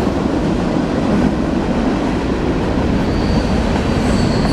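Freight train rolling past close by, a loud steady rumble of wheels on rail, with a faint thin high squeal creeping in near the end.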